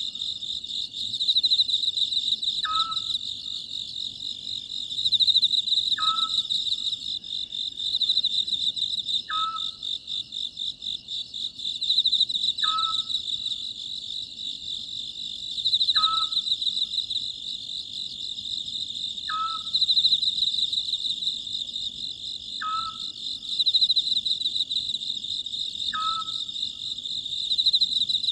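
Oriental scops owl calling, a short note repeated about every three seconds, over a steady high-pitched chorus of night insects.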